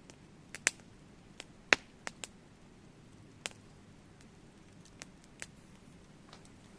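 Wood fire crackling: scattered sharp pops and snaps at irregular intervals over a low, steady hiss.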